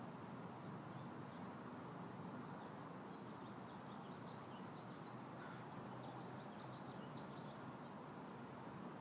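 Faint bird calls, short high chirps scattered through and bunched near the end, over a steady low hum of outdoor background noise.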